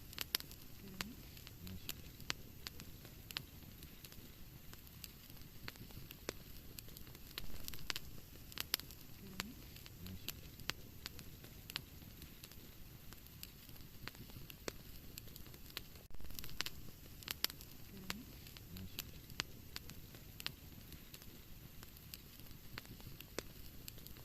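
Wood fire burning in a fireplace, with a steady low hiss and frequent irregular sharp crackles and pops. The same stretch of crackling repeats about every eight and a half seconds, as a loop.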